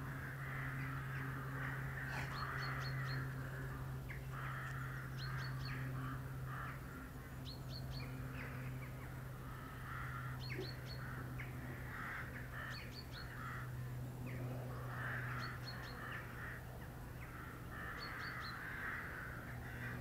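Birds calling on open ground: repeated harsh calls, with short groups of three or four quick high chirps every second or two, over a steady low hum.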